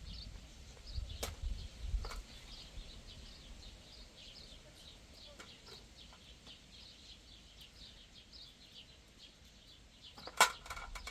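Small birds chirping continuously, with a few sharp knocks; the loudest knock comes near the end.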